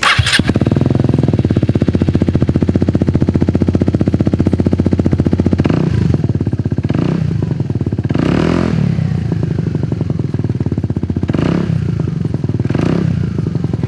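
Italjet Dragster scooter's Akrapovic exhaust idling steadily, then given several short throttle blips, the first about six seconds in and the last two near the end.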